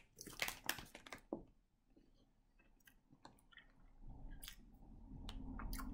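A person biting into a soft white-bread egg salad sandwich and chewing it, with short moist clicks and crackles from the mouth in the first second or so and fainter clicks after. A low steady hum sets in about four seconds in.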